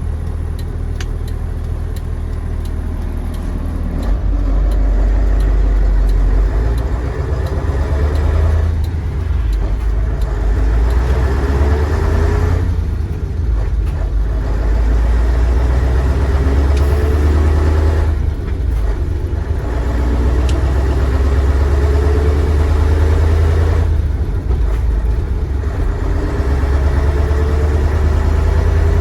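Mercedes-Benz 1729's OM442 15-litre V8 diesel engine pulling the truck through the gears. The engine note climbs and drops back about four times as it shifts.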